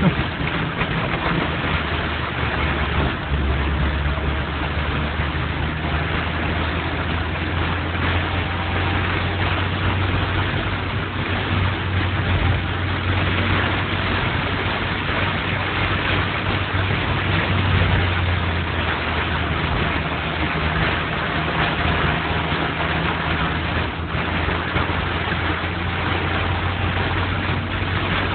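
Road traffic in the rain: car engines running steadily at low speed under a constant hiss of rain and wet road. There is a brief knock right at the start.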